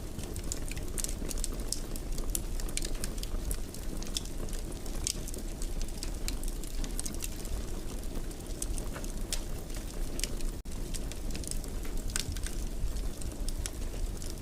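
Wood fire burning in a fireplace: a steady low roar of flames with frequent irregular crackles and pops. The sound cuts out for an instant about ten seconds in.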